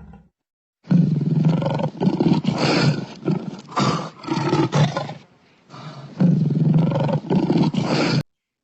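A large animal calling loudly in a long run of rough, pulsing calls, with a short pause about five seconds in; the calls start and stop abruptly.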